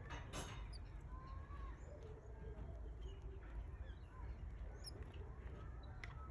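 Canary chicks cheeping softly: scattered short high peeps and thin rising-and-falling calls, with a brief rustle about a third of a second in, over a steady low background rumble.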